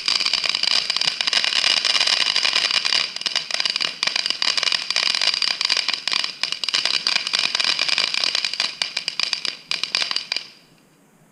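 Steady hiss and clicking rattles of a bicycle being ridden, cutting off abruptly about ten and a half seconds in.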